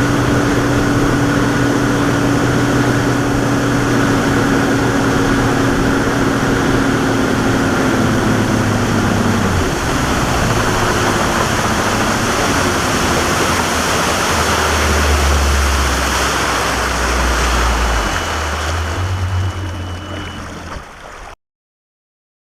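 Boat motor running with loud rushing water and wind noise; the engine note drops about ten seconds in as the boat throttles back, and the sound cuts off suddenly near the end.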